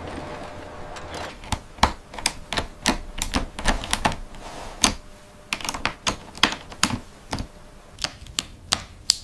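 Irregular sharp clicks and taps of small hard parts being handled and set down, one to three a second.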